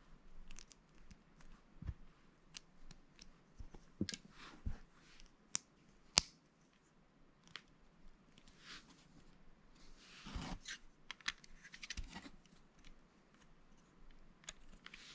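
Plastic Lego bricks clicking and tapping as they are handled and pressed together, with a short rustle of pieces being sorted about ten seconds in.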